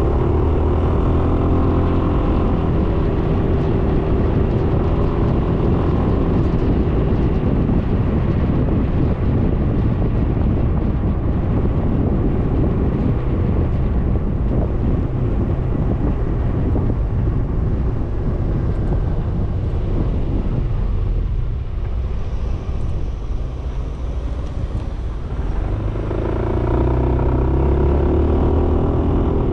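A 2020 Suzuki Burgman 400 scooter's single-cylinder engine running while riding, with wind and road noise. About two-thirds through, the engine tone eases off and the sound drops a little for a few seconds, then the engine comes back strongly near the end.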